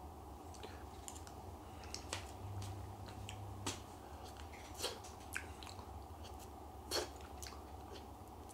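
Faint chewing and wet mouth clicks of someone eating stretchy mochi off a fork, with a few scattered small clicks over a faint low hum.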